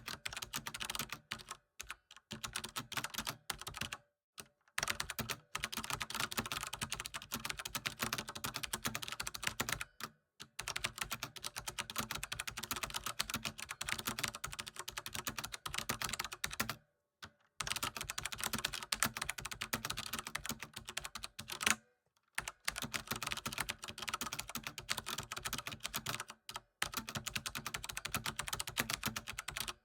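Fast, continuous typing on a computer keyboard: a dense run of key clicks broken by about five short pauses of around half a second.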